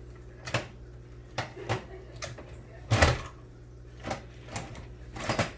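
Irregular clicks and knocks from handling parts of a hobby-grade RC truck build, about eight in all, the loudest about three seconds in, over a steady low hum.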